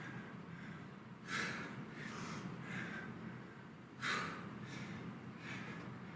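A man breathing hard in short, forceful puffs, about one a second, with the loudest puffs about a second in and about four seconds in. He is out of breath from exertion during jumping exercise.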